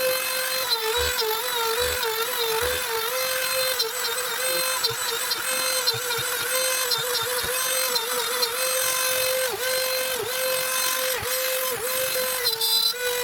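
Trim router spindle on a CNC machine running at high speed and whining steadily as it cuts plywood. Its pitch sags briefly several times as the bit takes load.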